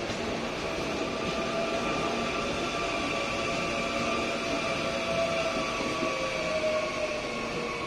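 CPTM electric commuter train rolling past the platform: wheel-on-rail rumble with a steady whine, fading as the last car goes by near the end.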